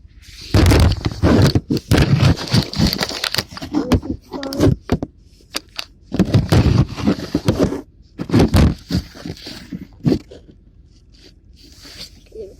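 Loud, irregular clattering and scraping handling noises close to the microphone, in bursts, quieter from about ten seconds in.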